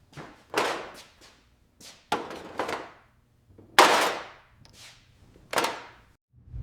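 A series of sharp knocks or impacts, about one every half second to a second, each fading quickly; the loudest comes near the middle.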